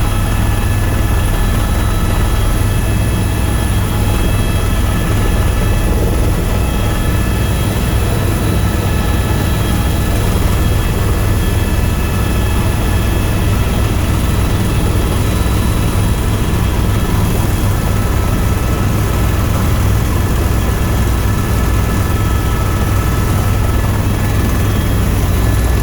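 Tour helicopter in steady cruising flight: loud, even rotor and turbine engine noise with a strong low throb and steady high whines.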